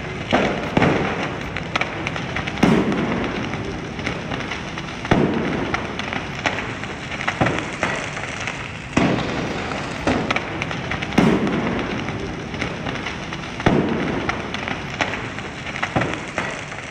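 A stockpile of seized fireworks and firecrackers going off in a fire: a continuous crackle and popping, broken by loud bangs every second or two, each followed by an echo.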